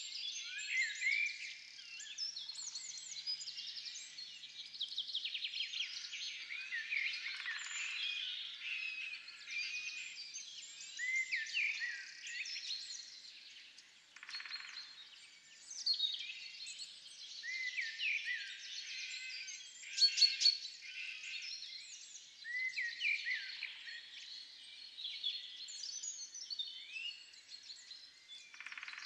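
Several songbirds singing and calling at once: a dense, overlapping chorus of short chirps and trills that carries on without a break.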